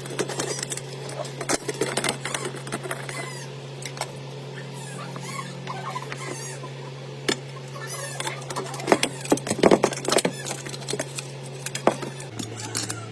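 Irregular clicks and knocks, densest about nine to ten seconds in, over a steady low hum.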